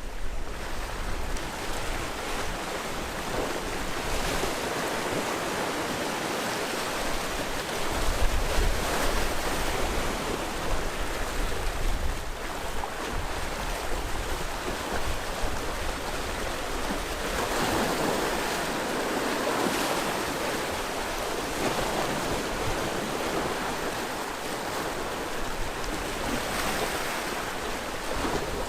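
Sea waves breaking and washing on the shore, a continuous surf that swells and eases every few seconds.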